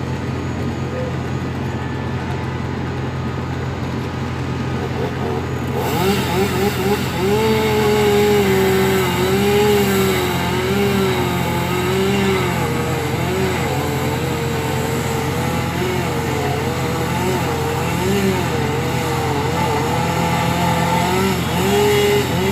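Vehicle engine running steadily. About six seconds in, the sound gets louder and fuller, and a wavering pitched tone joins it and keeps going.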